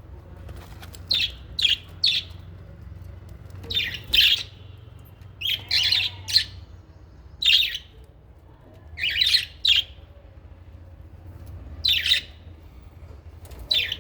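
Small pet parrots in an aviary giving short, shrill calls in quick clusters of two or three, one to two seconds apart, over a steady low hum.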